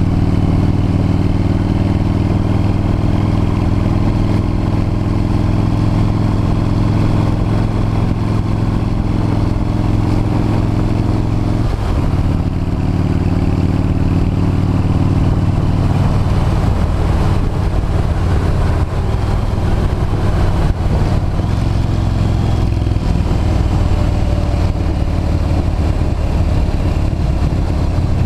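V-twin motorcycle engine running steadily on the road, recorded from the moving bike. The engine note dips briefly about twelve seconds in, then runs at a lower pitch from about sixteen seconds in.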